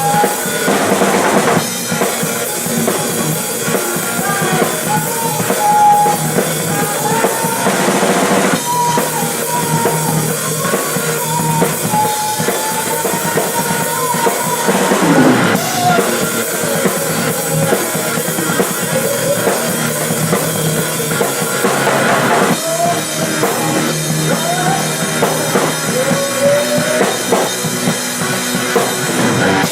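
Rock drum kit played hard and continuously, with bass drum, snare and cymbals, in a full rock song. A wavering melody line runs above the drums.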